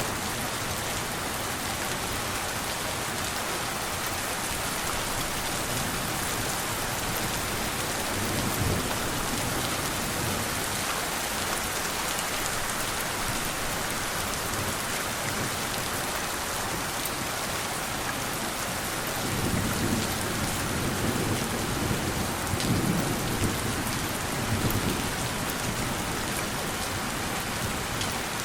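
Steady rain falling, with soft low rumbles of distant thunder: a short one about a third of the way in and a longer rolling one in the last third.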